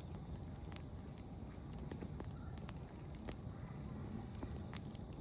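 Wood campfire crackling: a low steady flame rumble with sharp single pops of burning firewood scattered through, about every half second to second. Faint high pulsing chirps of insects carry on in the background.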